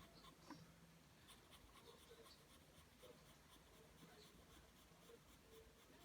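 Pencil drawing lines on paper: a faint, continuous run of short scratching strokes, several a second.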